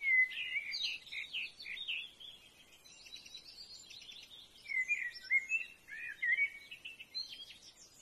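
Bird calls: two bursts of quick, high chirps and short whistled notes, the first right at the start and the second about five seconds in, with scattered softer chirps between them.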